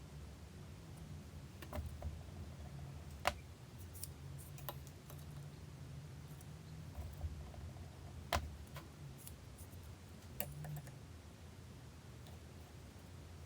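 Scattered sharp clicks and light knocks of parts and tools being handled, over a low steady hum; the clearest knocks come about 3 s and 8 s in.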